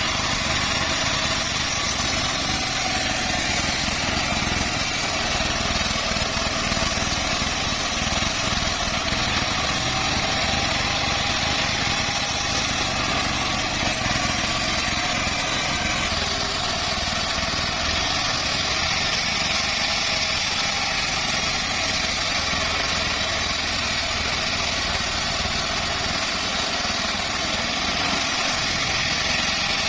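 Engine-driven portable band sawmill running steadily at constant speed while sawing teak.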